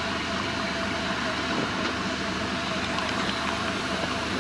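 A steady engine or machine running: a constant hum and rumble with no change in speed.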